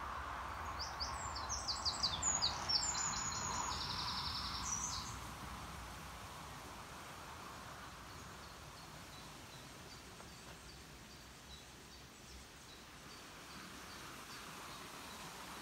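A small songbird sings one rapid, high-pitched phrase of about four seconds, with a fast trill near its end, over a steady outdoor hiss. After it, another bird faintly repeats a short high note at an even pace.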